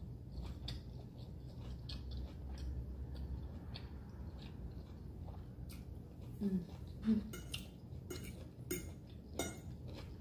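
Close-miked chewing of a seitan and broccoli stir fry with brown rice: soft wet mouth clicks and smacks, with occasional clinks of a utensil on the dish. The clicks get sharper in the second half.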